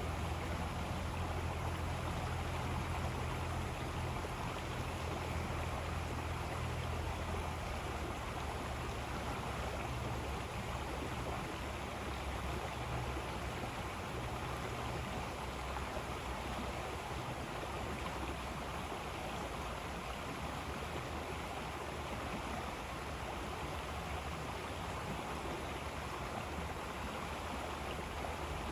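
River water flowing in a steady, even rush, with a low rumble underneath that eases after about eight seconds.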